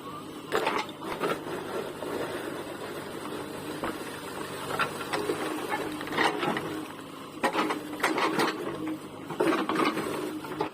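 JCB 3DX backhoe loader's diesel engine running with a steady hum, while bricks and rubble clatter in sharp knocks several times as the machine works.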